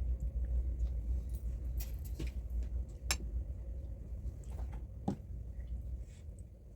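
Eating sounds: scattered wet clicks and smacks of chewing, the loudest about three and five seconds in, over a steady low rumble that eases near the end.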